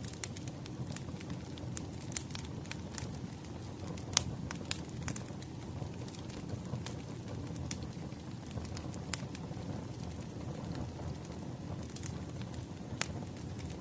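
Wood fire crackling: a steady low rumble of burning logs with sharp pops and snaps at irregular moments, the loudest about four seconds in.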